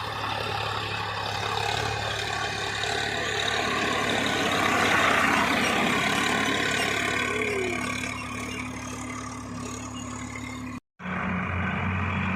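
Tractor diesel engine running steadily, getting louder about halfway through. Near the end the sound cuts out for a moment and comes back with a different engine note.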